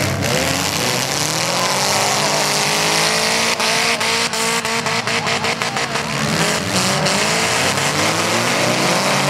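Several demolition derby cars' engines revving and running at once, their pitches rising and falling as the cars push and manoeuvre. A quick series of sharp knocks comes through about halfway.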